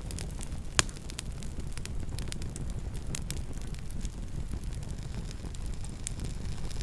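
Campfire crackling: a steady low rumble of burning wood with scattered sharp pops and snaps, one louder pop a little under a second in.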